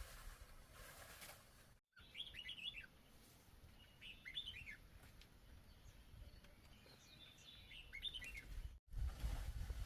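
A small bird chirping: three short runs of quick, falling chirps a couple of seconds apart, faint over low outdoor background.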